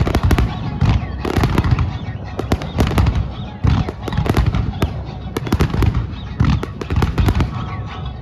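Dense barrage of aerial fireworks shells bursting in rapid, irregular succession, several bangs a second with crackle and a continuous low rumble: a show's finale.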